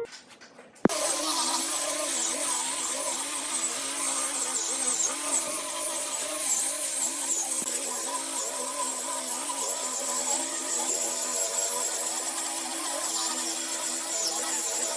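A small power tool running steadily, its motor pitch wavering slightly; it starts suddenly with a click just under a second in.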